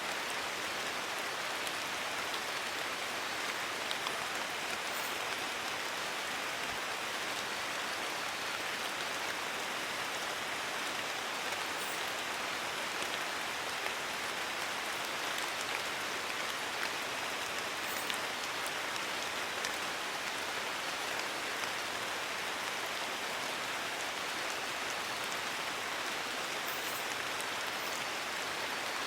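Steady rain falling on forest leaves: an even hiss with a few individual drops ticking now and then.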